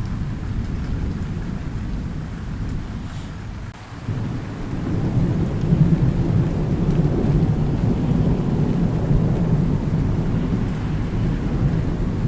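Thunderstorm with steady rain: low rolling thunder that fades about four seconds in, then a new long roll builds and keeps rumbling under the rain.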